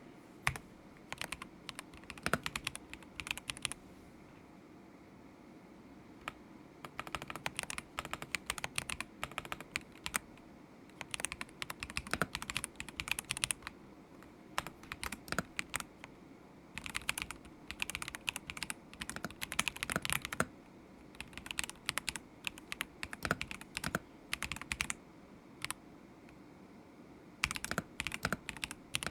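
Typing on a stock KZZI K75 Pro mechanical keyboard with Moment linear switches: bursts of rapid key clacks lasting a few seconds, broken by short pauses, with a pause of about three seconds near the start.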